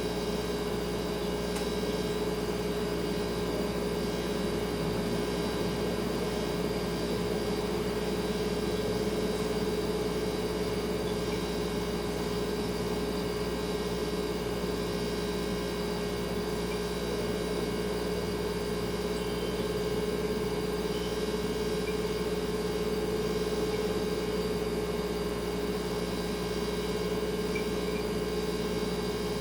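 Kitchen refrigerator running with a steady hum: a clear mid-pitched tone over a low drone and a faint hiss.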